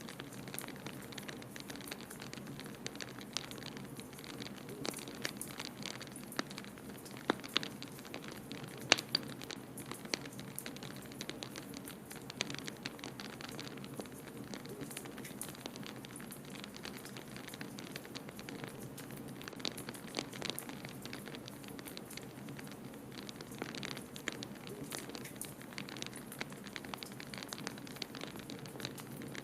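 Wood fire in a fireplace crackling with frequent small pops, and a few sharper, louder pops about a quarter of the way in. Under it runs a steady low rush, the blizzard wind of the winter ambience.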